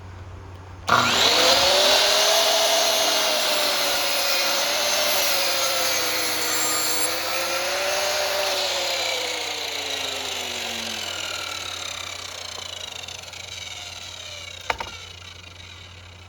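Electric power saw cutting through lumber. It starts abruptly about a second in, and its whine wavers in pitch under the load, then slowly drops and fades as the blade winds down. A single sharp knock comes near the end.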